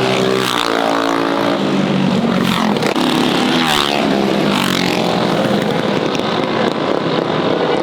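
Mini bike engines running and revving, their pitch falling and rising several times.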